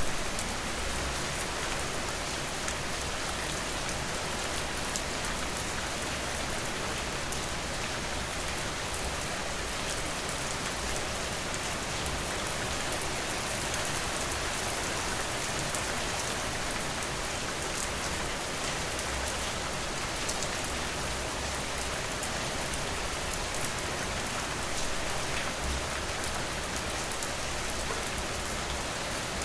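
Steady rain falling, an even hiss with scattered faint sharp ticks of drops.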